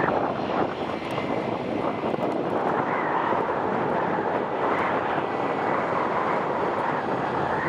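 Jet airliner engines running with a steady rushing noise and a faint high whine.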